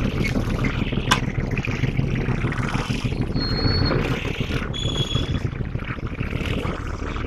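Diesel locomotive engine running at idle, a steady low rumble, with a sharp click about a second in and a few brief high squeaks.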